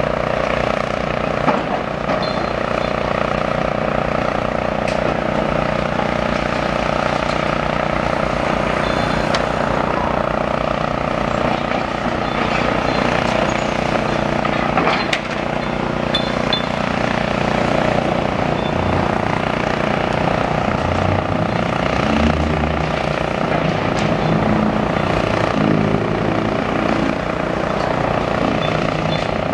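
Demolition excavator's engine working over the steady drone of a dust-suppression water mist cannon. The engine note steps up and down for several seconds past the middle, and a couple of sharp knocks come from the rubble.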